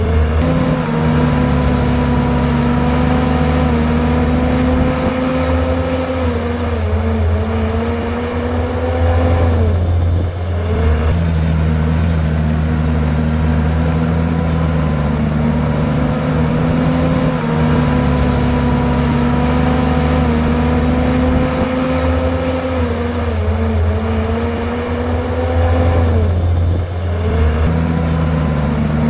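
Komatsu bulldozer's diesel engine working steadily at high revs. Its pitch sags briefly and recovers three times: right at the start, about ten seconds in, and near the end.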